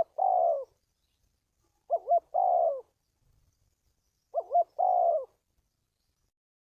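Spotted dove cooing three times, about two and a half seconds apart: each call is two quick short notes followed by a longer falling coo.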